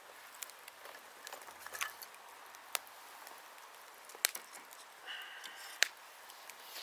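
Wood fire crackling with scattered sharp pops, the loudest about four seconds in and just before six seconds. A brief high whistling tone sounds just after five seconds.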